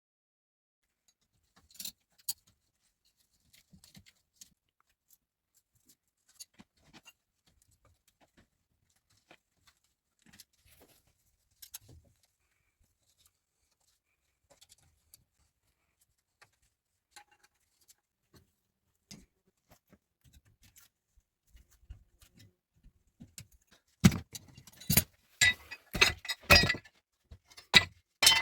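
Faint scattered light clicks and taps, then, near the end, a quick run of loud sharp clinks and knocks as hard objects are handled.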